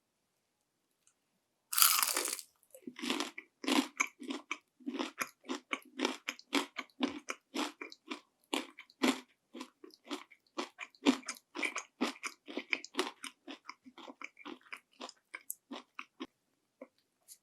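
Panko-breaded fried shrimp bitten close to the mouth with one loud crunch about two seconds in, then chewed with a quick run of crisp crunches, two to three a second, growing softer toward the end.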